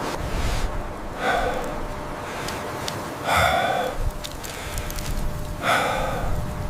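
Three short pitched cries, each about half a second to a second long and a couple of seconds apart, over a steady low rumble like wind.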